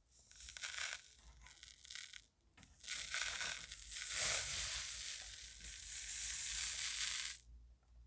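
Colored sand being scratched: a dry, grainy scratching in two short strokes, then one long stroke of about four and a half seconds that stops abruptly.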